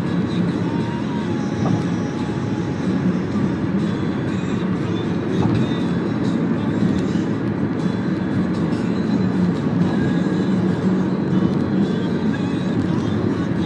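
Steady road and engine noise inside a Toyota Camry 2.4 cruising along, a constant low rumble with no sudden changes.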